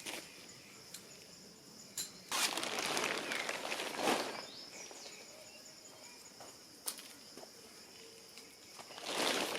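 Steady, high-pitched insect chorus. Over it come a few sharp clicks and two louder stretches of rustling noise, each about two seconds long: one starting about two seconds in, one near the end.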